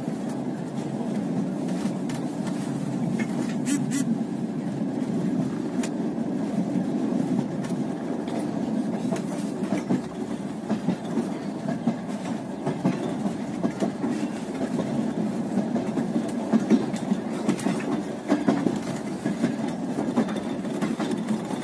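Passenger train coach rolling along the track, heard from inside the carriage: a steady low rumble of wheels on rails with scattered sharper clicks and clacks.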